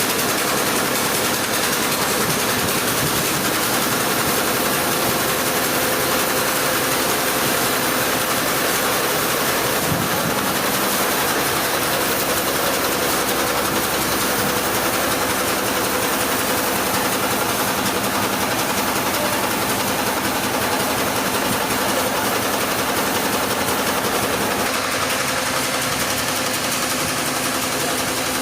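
Sawmill machinery running steadily: a constant engine drone under a loud, even hiss, with a slight change in pitch about ten seconds in and again near the end.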